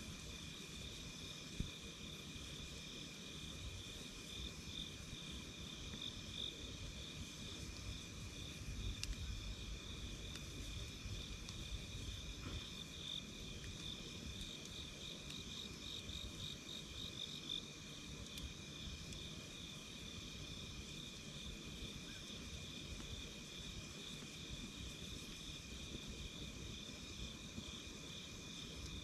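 Night insects calling without a break in a high, steady trill, with a second, higher band of pulsing chirps. Beneath them is a low rumble, with a few faint pops from a crackling campfire, one sharper pop a couple of seconds in.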